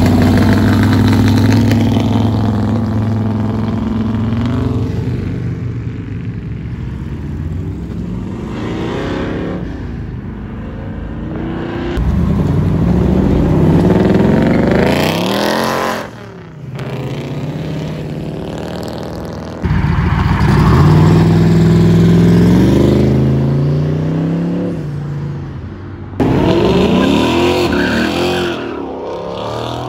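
Late-model Ford Mustangs and other performance cars pulling away one after another, each engine revving up and rising in pitch as it accelerates. Sudden jumps in loudness mark the change from one car to the next.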